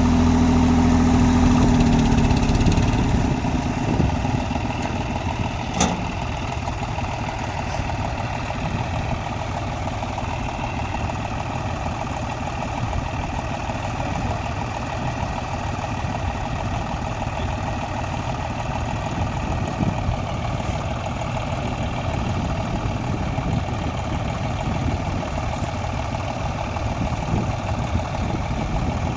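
Tractor engine running, louder for the first two or three seconds, then settling to a steady, even run. A single sharp click about six seconds in.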